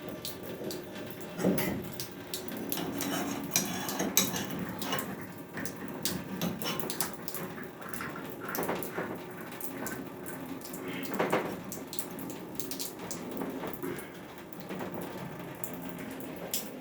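Scattered metallic clinks and knocks of tools and plumbing fittings being handled during repair work.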